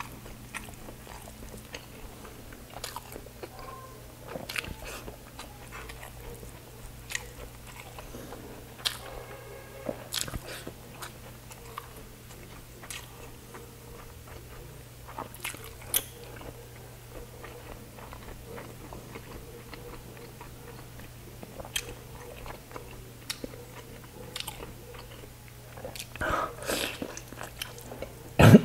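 Close-miked eating sounds: a person chewing chicken and rice with wet mouth clicks and smacks and a few crunchy bites, louder near the end.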